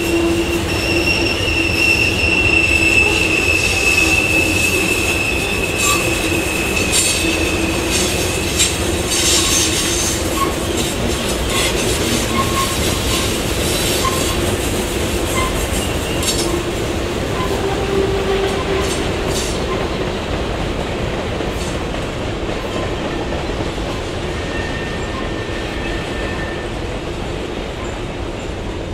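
Freight cars rolling past on a curve. For the first several seconds the wheel flanges squeal against the rail in a high, steady tone. Through the middle come sharp, irregular clicks from the wheels, over a steady rumble that eases slightly near the end.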